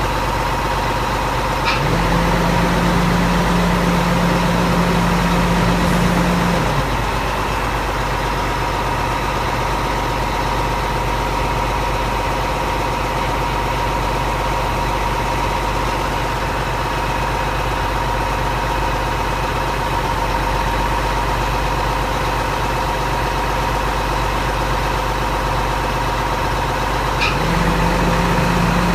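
Crane truck engine idling steadily. A low hum comes in with a click about two seconds in, stops about five seconds later, and returns with another click near the end.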